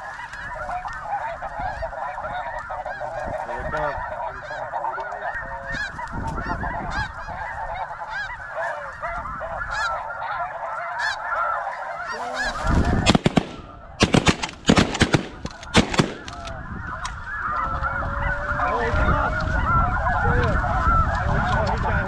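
A huge flock of snow geese calling continuously, many overlapping high honks at once. About two-thirds of the way through, a quick volley of several shotgun shots cuts in over about three seconds, and then the flock's calling carries on.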